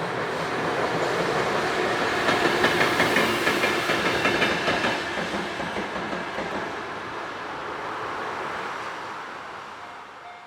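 Freight train passing close by, with a steady rumble and wheels clattering over the rail joints. It is loudest a few seconds in and fades gradually toward the end.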